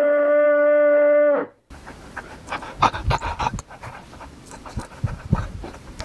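A farm animal's long call, held on one steady pitch and dropping away about a second and a half in. After a short gap, close-up snuffling and panting breaths with small clicks.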